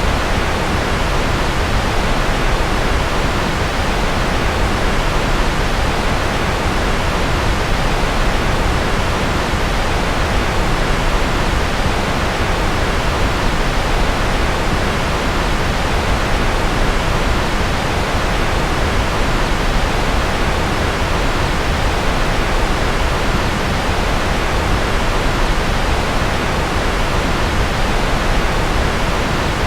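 Steady pink-noise track: an even, unchanging rushing hiss, fuller at the deep end, with no breaks or events.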